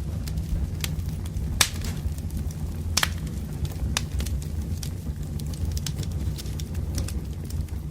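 Wood fire burning, a steady low rumble with sharp crackles and pops; the loudest pops come at about one and a half, three and four seconds in.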